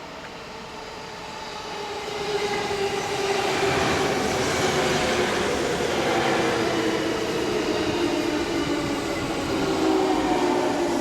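JR 209 series electric train pulling into a station and slowing down. It grows louder over the first few seconds, then runs as a rumble with a whine that falls steadily in pitch as the train brakes.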